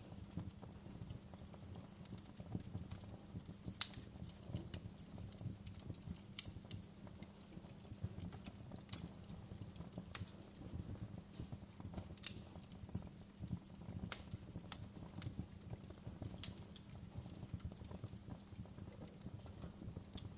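Wood fire crackling in a fireplace: irregular sharp pops and snaps, the loudest about four seconds and twelve seconds in, over a low steady rumble.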